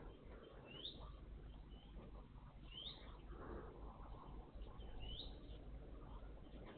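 Small songbird calling: a short rising call about every two seconds, three times.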